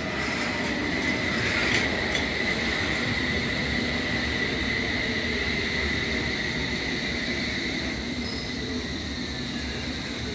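London Underground S stock train running in along the platform: steady rumble and wheel noise on the rails with a steady high-pitched whine. Near the end a whine falls in pitch as the train slows.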